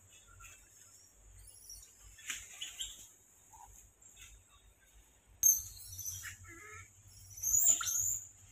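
Birds chirping in short, high, quickly sliding calls, loudest about five and a half seconds in and again near the end.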